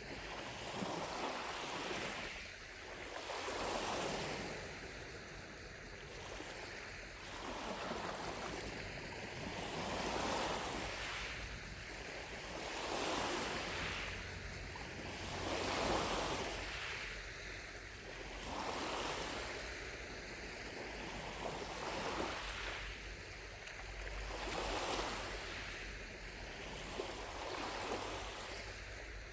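Gentle lake waves washing onto the shore, each wave swelling and fading about every three seconds.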